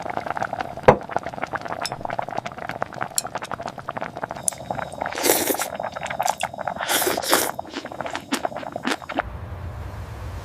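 Kitchen clatter: many light clinks of utensils against dishes and glass, with two short hissing bursts about five and seven seconds in. Near the end it gives way to a steady low hum.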